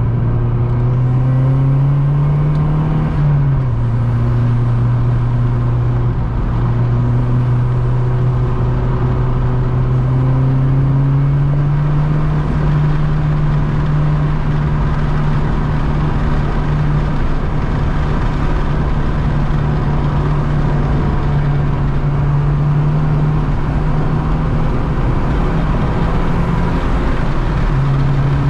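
Mazdaspeed3's turbocharged 2.3-litre four-cylinder engine running hard at track pace: its note climbs, drops sharply about three seconds in, then rises again and holds for long stretches, over steady road and wind noise.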